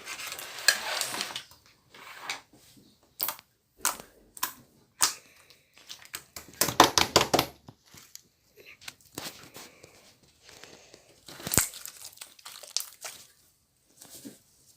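Slime being squished and stretched by hand, giving sticky crackling and sharp popping clicks, with a quick run of pops about seven seconds in.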